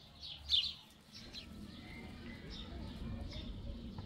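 Small birds chirping: a few short, high, falling chirps, the loudest about half a second in, over a low background rumble.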